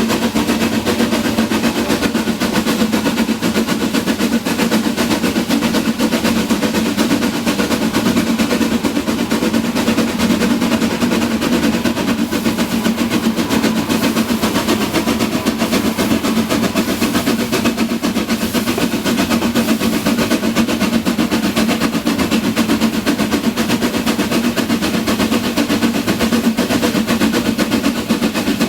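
Narrow-gauge steam train running at a steady pace, a rapid, continuous clatter over a steady low hum.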